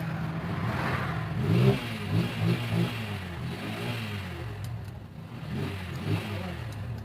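Honda CD70's single-cylinder four-stroke engine, converted to 100cc with a GN5 piston, running and being revved in a few short blips.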